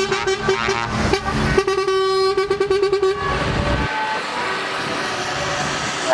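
Trucks passing with their horns sounding; about one and a half seconds in, one horn is blown in a fast run of short blasts, after which a steady rushing hiss takes over.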